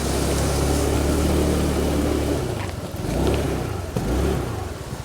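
Motorbike engine running steadily, then dropping in pitch about halfway through and wavering toward idle.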